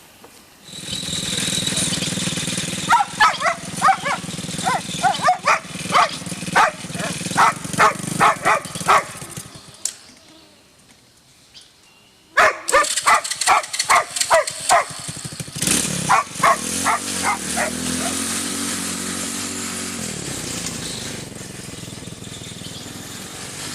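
A dog barks in two runs of quick, repeated barks over a steady motor noise, with a short lull between the runs. From about two-thirds of the way in, the homemade karakat's small engine runs, its pitch rising and falling as it gets under way.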